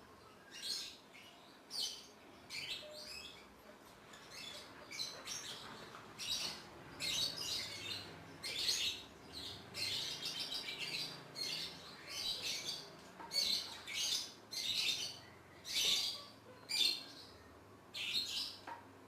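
Homemade slime being squeezed and stretched by hand, giving a run of irregular wet squelches and crackling air-pocket pops.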